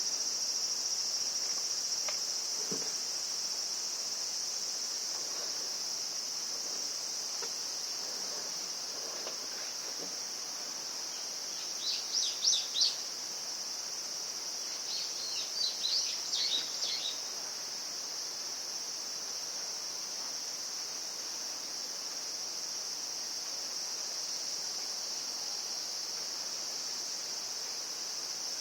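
Insects chirring in a steady, high-pitched drone. A bird breaks in with two short bursts of rapid chirps, about twelve seconds in and again a few seconds later.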